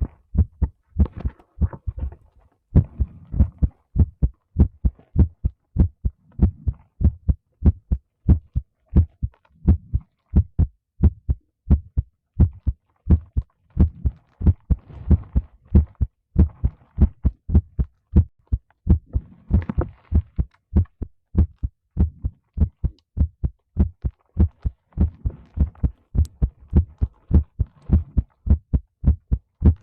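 Human heartbeat heard close up through a microphone: an even, steady rhythm of low thumps, with a soft rustle now and then.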